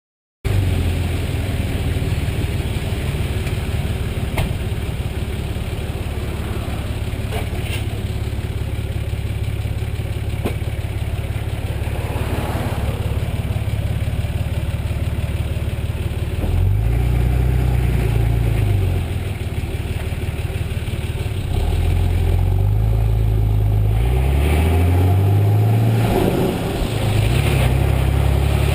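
Nissan Patrol's 4.2-litre TD42 straight-six diesel idling through a 3-inch mandrel-bent TaipanXP exhaust with vortex muffler and resonator. It is revved up and back down once past the middle, then blipped several times in quick succession near the end.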